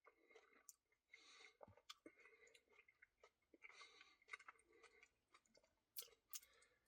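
Faint, close-up chewing and wet mouth clicks of someone eating ice cream, with scattered soft clicks and a couple of sharper ones near the end.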